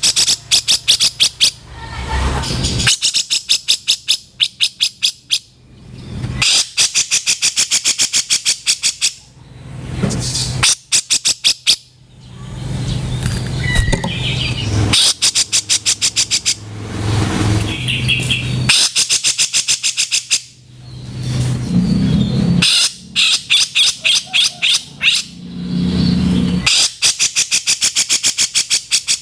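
Cucak jenggot (brown-cheeked bulbul) giving its harsh rattling call: runs of fast, evenly spaced rasping notes, about ten a second, each run lasting two to three seconds, repeated over and over with short pauses between.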